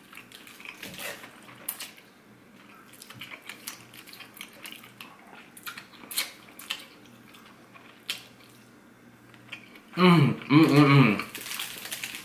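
A person chewing a bite of a deep-fried, panko-and-sugar-coated mozzarella corn dog, with scattered soft crunches and wet mouth sounds. About ten seconds in comes a loud, short hum of the voice that rises and falls in pitch.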